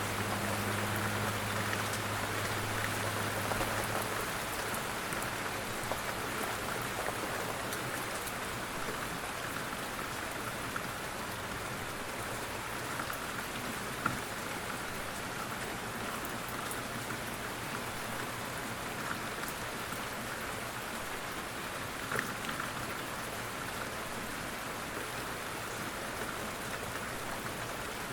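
Steady rain falling on surfaces, with scattered individual drops ticking through it. A faint low hum fades out about four seconds in.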